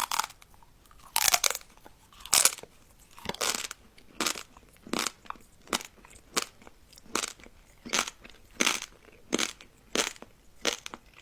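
Close-miked crunchy food being bitten and chewed: a few loud crunching bites in the first few seconds, then steady crunching chews about three every two seconds.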